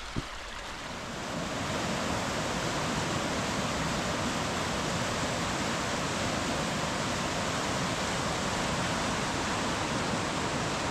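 Rushing brook water, a steady roar of fast-flowing water that grows louder over the first couple of seconds and then holds even.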